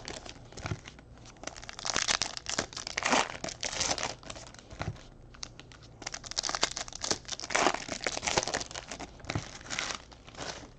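Plastic wrapping on trading-card packs crinkling and tearing as it is opened by hand, in irregular bursts of a second or two with short pauses between.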